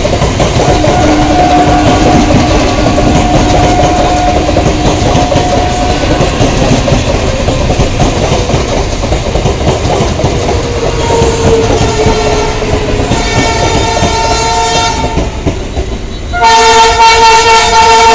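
Electric multiple-unit local train running past close by: a steady rumble and clatter of wheels on rail joints. A horn sounds faintly in the first few seconds and again about eleven seconds in, dropping slightly in pitch. About a second and a half before the end, a loud multi-tone diesel locomotive horn starts suddenly and holds.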